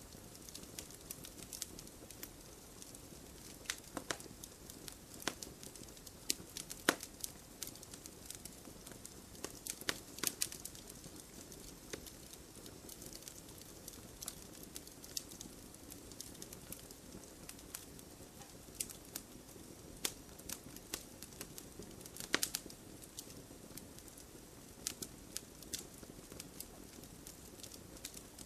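Wood campfire burning, crackling and popping in sharp irregular snaps over a soft steady hiss.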